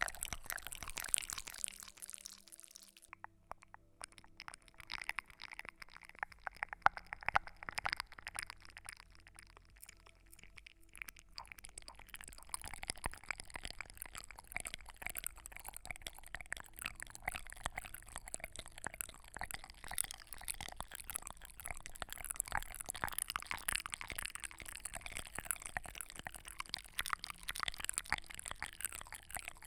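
Close-miked ASMR trigger sounds: a dense, irregular run of small crackles and clicks, sparser for several seconds near the start and then busier again.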